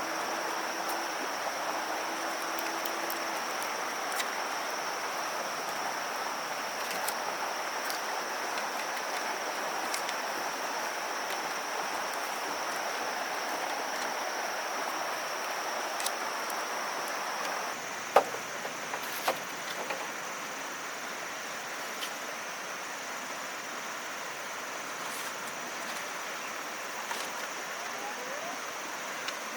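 Outdoor ambience: a steady high insect drone over a hiss, with scattered light knocks and taps and one sharper knock a little past halfway.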